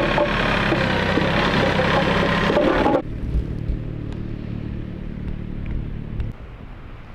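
A motor vehicle engine running. About three seconds in it drops abruptly to a quieter, lower hum, which fades further near the end.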